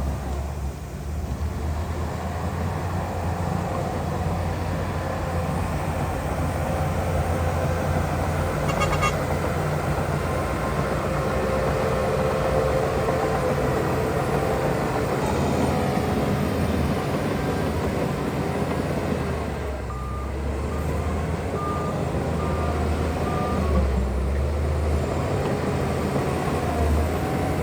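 Heavy diesel earthmoving machinery, dump trucks and a bulldozer, running steadily under load. A reversing alarm beeps briefly about nine seconds in and again four times about twenty seconds in.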